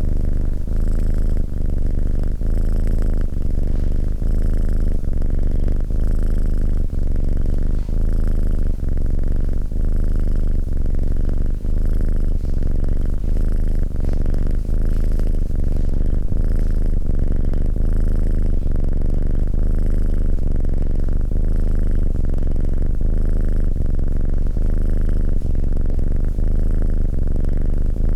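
Domestic cat purring close up, a continuous low buzz that swells and eases in a steady rhythm of breaths, about one a second.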